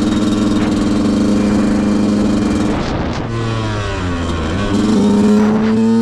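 A KTM 125 EXC's two-stroke single-cylinder engine on a ride, held at steady revs. About three seconds in the revs drop briefly, then climb again.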